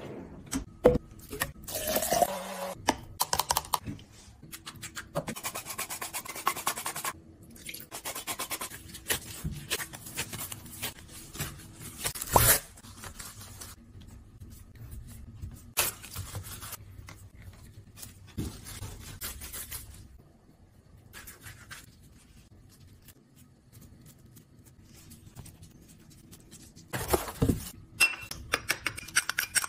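Kitchen handling sounds of groceries and their packaging: irregular scraping, rubbing and rustling with scattered clicks, a sharp knock about twelve seconds in and a louder flurry near the end.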